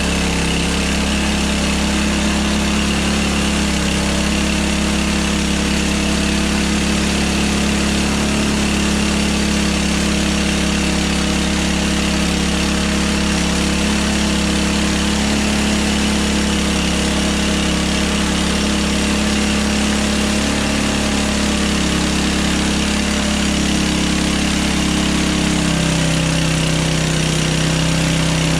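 Hudson Hunter portable bandsaw sawmill running steadily, its engine driving the band blade through a log. The engine note shifts slightly near the end.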